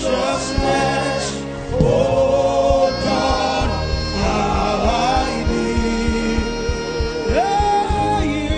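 Gospel worship music: voices singing held, gliding notes over instrumental backing with a steady beat.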